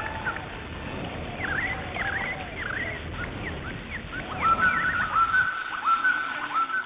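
Bird calls from a stock nature-sound recording: a run of quick chirps that dip and rise in pitch, then a series of repeated calls, each a quick upward slide onto a held note. A low background noise sits beneath and drops away near the end.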